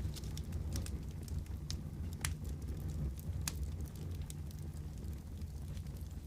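Fireplace fire crackling: scattered sharp pops, the loudest about two and three and a half seconds in, over a steady low rumble.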